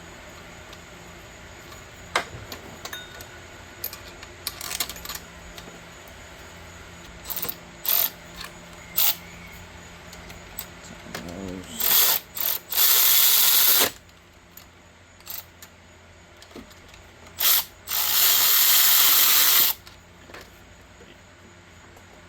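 A power tool runs in two loud bursts of about two seconds each, with a few short blips before them, running in the alternator's lower mounting bolts. Scattered clicks and clanks of tools come before the bursts.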